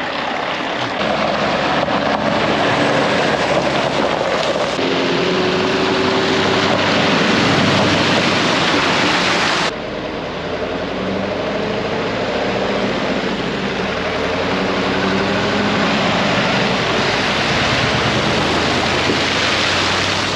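Heavy lorry engines running and shifting in pitch, over steady wind rumble on the microphone. The sound changes abruptly about ten seconds in.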